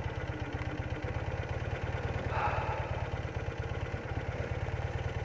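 BMW R80RT's air-cooled flat-twin boxer engine running at low revs, a steady rapid low pulse, as the bike is ridden at a crawl through repeated stops.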